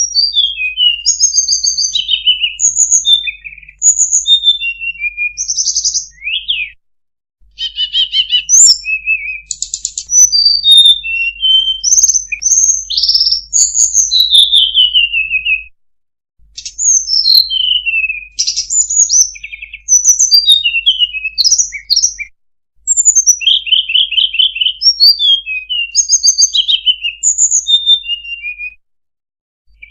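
Lure recording of a sulingan (tledekan) bird singing: a rapid, high-pitched song of short whistled notes, many sliding downward, in four runs separated by brief pauses.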